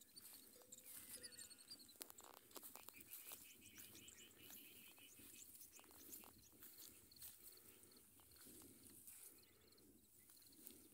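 Near silence: faint outdoor ambience with a few distant bird chirps and trills, mostly in the first half.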